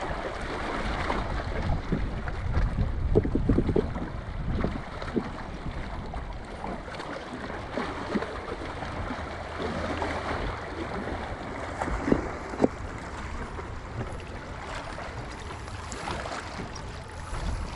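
Gusty wind buffeting the microphone in uneven rumbles, with water sounds and a few brief knocks.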